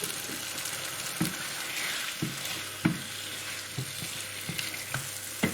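Chicken pieces sizzling in a hot pan of curry base gravy, stirred, with several short knocks of the stirring utensil against the pan.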